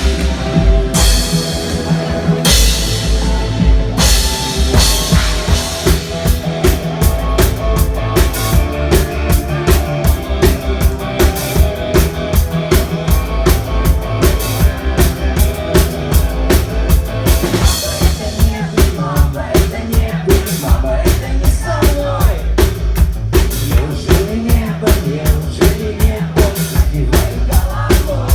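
Rock band playing live, drum kit to the fore: a few heavy accented hits, then from about four seconds in a steady driving beat of about two to three strokes a second under sustained bass and guitar lines.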